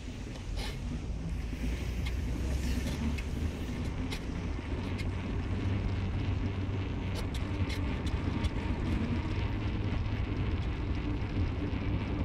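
Car on the move: a steady low drone of engine and road noise, with scattered light clicks.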